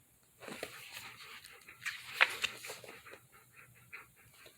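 A pet dog panting softly in quick, even breaths, with one sharp click about two seconds in.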